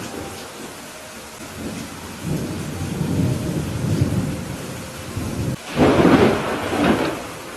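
Steady rain falling during a thunderstorm, with thunder rumbling low from about two seconds in and then breaking into a sudden, louder clap just before six seconds in that rolls away by the end.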